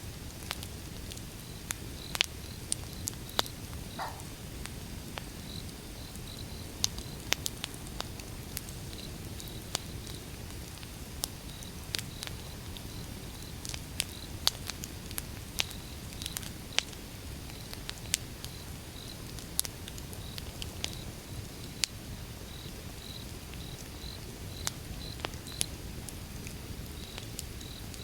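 Wood fire burning: irregular sharp crackles and pops over a steady low rumble, with a brief high whistle about four seconds in. A cricket chirps faintly in the background.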